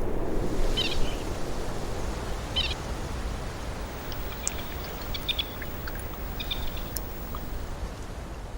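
Short, high bird chirps, a few scattered calls, over a steady low rumble that slowly fades.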